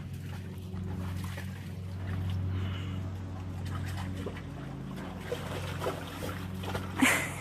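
Water sloshing and trickling as a dog moves about in a shallow plastic pet pool, with small splashes and a louder splash about seven seconds in. A steady low hum runs underneath.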